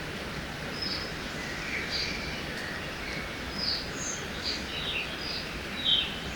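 Forest ambience beside a river: a steady rush of flowing water with several songbirds giving short chirps and calls, one louder chirp near the end.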